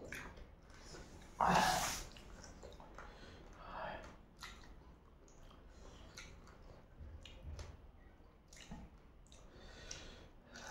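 People chewing and sucking on spicy chicken feet: soft wet smacks and small clicks throughout, with one short, loud rush of breath about a second and a half in.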